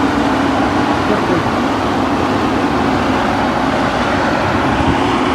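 Engine of a large farm machine running steadily at close range.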